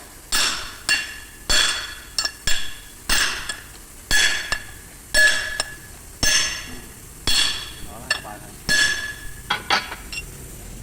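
Hammer striking a steel part over and over, the heavier blows coming about once a second with lighter taps between, each blow leaving a short metallic ring at the same pitch.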